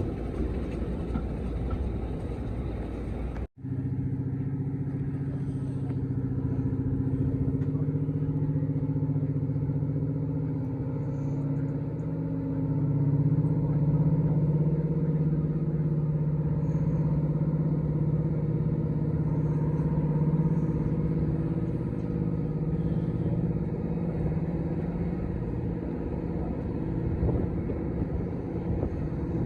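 Heritage diesel locomotive engine working under power, a steady heavy drone that swells a little partway through. A brief break in the sound comes about three and a half seconds in.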